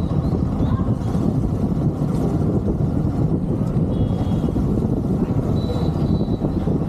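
Steady rumble of a motorcycle on the move, dense wind and road noise on the rider's microphone. Brief faint high tones sound a little past the middle and again near the end.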